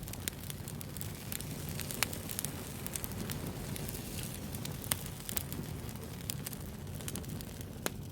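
Wood fire crackling: a steady low rumble of burning with frequent sharp pops and snaps, the loudest about two, five and eight seconds in.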